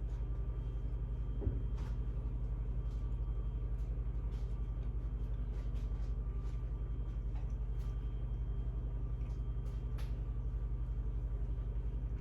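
A steady low mechanical hum with a fast, even pulse, like a small motor or appliance running, with a few faint clicks.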